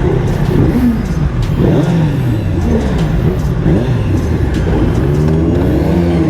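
Several superbike engines revving together, their pitches rising and falling over one another as the bikes idle and blip their throttles.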